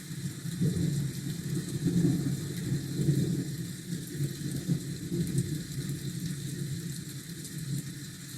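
Steady rain hiss with a deep low rumble that is loudest at the start and slowly dies away over several seconds.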